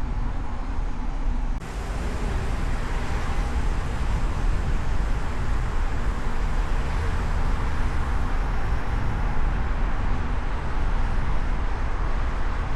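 Road and traffic noise heard from a camera mounted on a moving car's hood, with a steady low rumble of wind and tyres under a hiss of city traffic that fills out about two seconds in.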